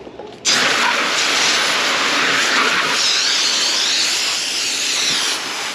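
Garden hose running full, a steady hiss of spraying water that starts abruptly about half a second in and eases slightly near the end; the hose is being run to flush out standing water and draw fresh well water.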